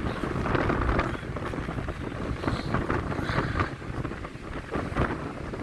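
Gale-force wind buffeting the camera's microphone in gusts, a heavy low rumble with irregular thumps.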